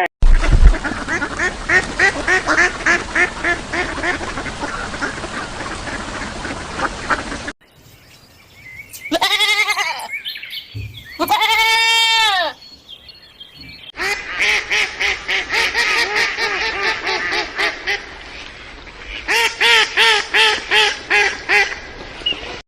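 Animal calls in several separate clips: a long run of rapid repeated calls, two single drawn-out calls that rise and fall in pitch, then another run of rapid repeated calls.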